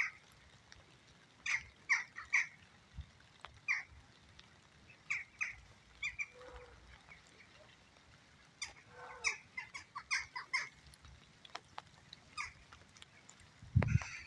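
Jackdaws calling: short, sharp calls, often in twos and threes, repeated at irregular intervals.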